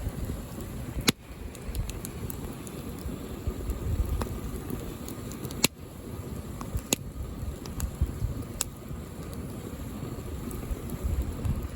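Outdoor wood fire burning, with a handful of sharp crackling pops over a low rumble of wind on the microphone.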